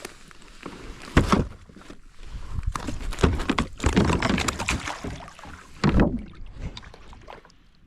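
Water splashing and knocking around a fishing kayak, in irregular bursts, with a sharp knock a little over a second in and a busy, splashy stretch from about three to six seconds.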